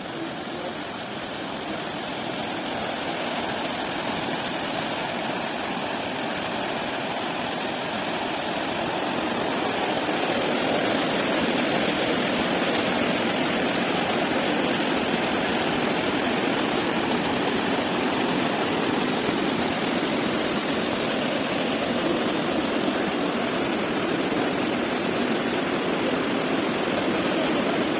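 Rushing water of a spring-fed cascade, a steady roar that grows louder over the first ten seconds and then holds.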